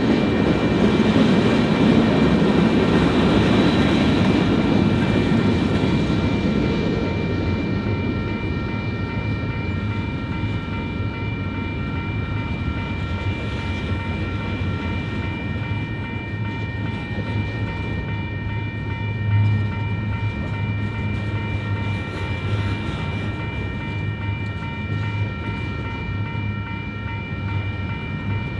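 Union Pacific manifest freight train rolling through a grade crossing. The rumble is loudest in the first few seconds, then settles to the steady rolling of freight cars. A steady high ringing from the crossing's warning bell sounds throughout.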